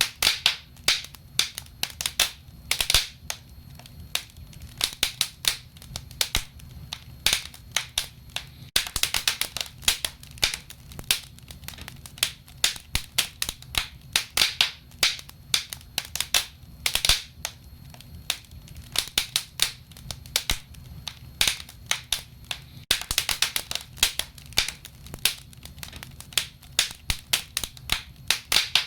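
Wood fire crackling and popping: irregular sharp snaps, several a second with occasional quick clusters, over a low steady rumble of the burning.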